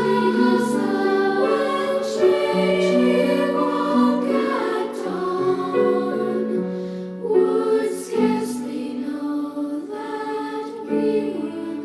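Two-part treble choir singing a choral song, with notes held about a second each and soft consonants between them.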